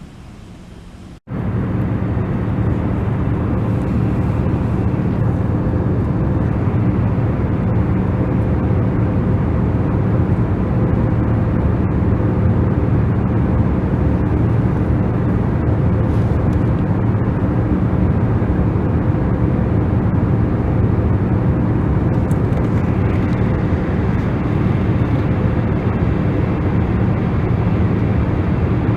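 Steady sleep noise, heavier in the low end, with a low hum running through it. A short dropout about a second in, after which it comes back much louder and stays even.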